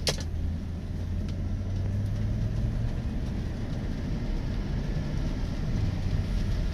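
The 5.3-litre V8 of a 2003 Chevy Tahoe runs with a steady low hum while the air conditioning is on. This is the condition in which the truck drops into reduced engine power, a fault the owner traced to a bad AC compressor wire.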